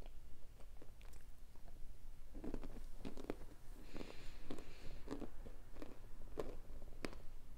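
Close-up biting and chewing of hard baked cornstarch chunks, with irregular sharp crunches; the chunks were cooked four hours in a pressure cooker and an hour in the oven, which makes them crunchy.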